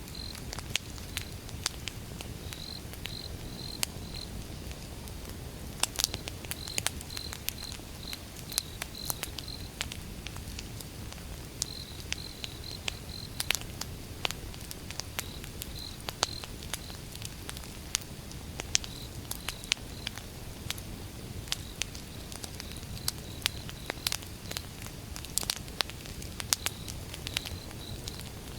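Campfire of burning wood crackling, with frequent irregular sharp pops over a low steady rumble of the flames. An insect chirps faintly in short high-pitched trains throughout.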